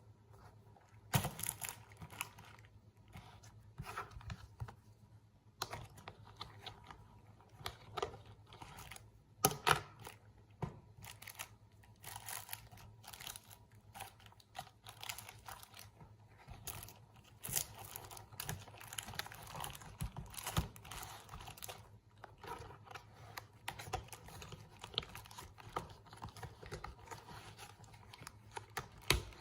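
Irregular small clicks, taps and crinkly rustling of objects being handled close up, over a faint steady low hum.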